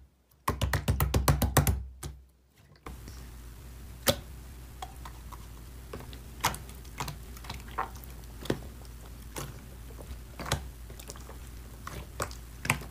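Slime being handled, making irregular small clicks and pops over a steady low hum, with a short run of rapid, louder clicking near the start.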